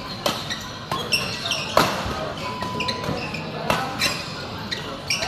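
Indoor court sounds: sharp, irregular impacts about every half second to a second, with short high shoe squeaks on the floor over a low background murmur, echoing in a large hall.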